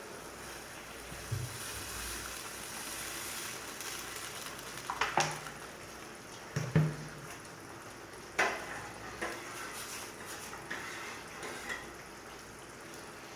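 A pot of rasam heating on the stove, with a steady faint hiss. A metal utensil clinks and knocks against the pot a few times, sharpest about five, seven and eight and a half seconds in.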